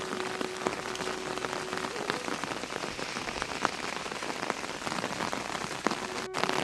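Steady rain falling on a surface, with many individual drops ticking sharply through it.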